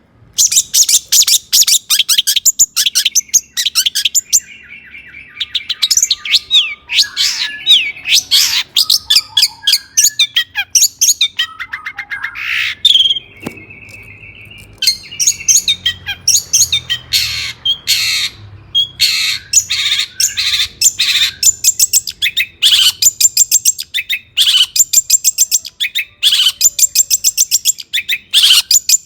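Long-tailed shrike (cendet) singing energetically in rapid, harsh strings of high chattering notes, broken by two short lulls that each hold a brief steady whistle.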